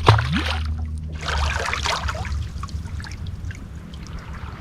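Water splashing and trickling, with a sharp splash at the start and a louder stretch of splashing about a second in. A steady low hum fades out early on.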